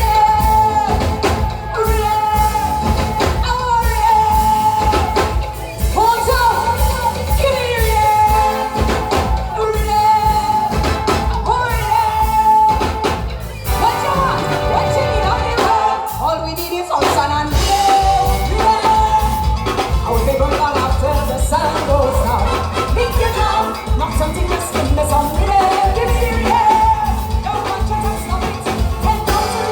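Live soca music played loud through a concert sound system: a singer's held, bending lines over a heavy, steady bass beat.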